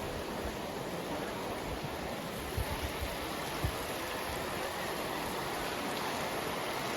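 Waterfall rushing with a steady, even roar of falling water. A few short low thumps sound about halfway through.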